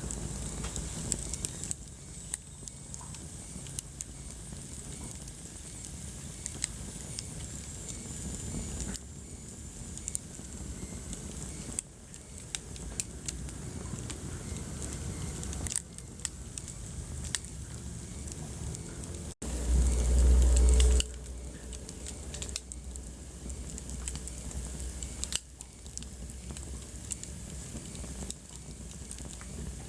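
Wood fire crackling in a fireplace, with scattered pops and snaps over a low rumble of flames. About two-thirds of the way through the sound drops out for an instant, then a louder low rumble lasts about a second and a half.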